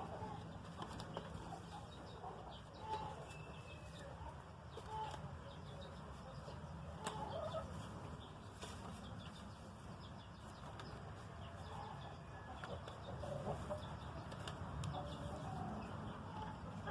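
Rustling and light clicks of hen's eggs being handled and gathered from a nest, with chickens clucking softly now and then.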